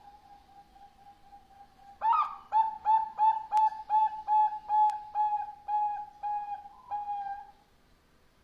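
Zebra dove (perkutut) cooing: a run of about a dozen short, clear notes, roughly two a second, ending on a longer drawn-out note. A faint, steady note before it.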